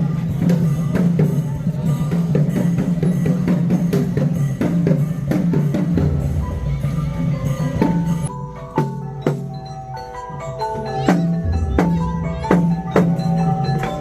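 Traditional Khmer ensemble music: xylophone-like mallet percussion playing quick struck notes over a steady drum beat. About eight seconds in the low drum sound thins out and ringing mallet notes with sharp strikes carry the music.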